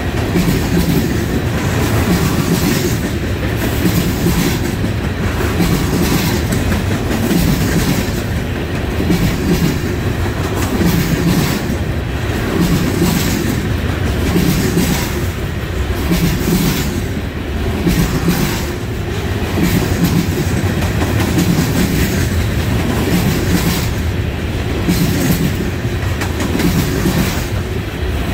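Freight cars of a trash train rolling past on steel wheels: a steady rumble with a repeating clickety-clack as the wheel sets cross the rail joints.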